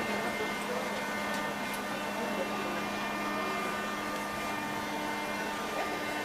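Moscow Metro 81-717/714 train standing at a station, its onboard equipment giving off a steady hum made of several fixed tones, with a few faint ticks.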